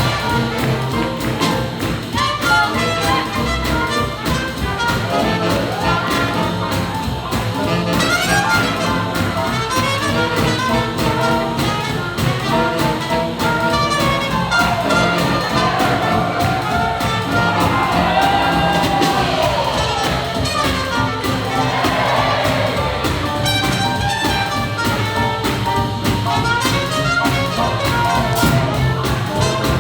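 Big-band swing jazz, with trumpets and trombones prominent over a steady beat, and some sliding brass lines midway.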